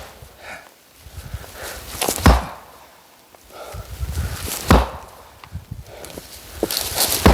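Oak firewood being chopped: three heavy blows, about two and a half seconds apart, with quieter knocking and handling between them.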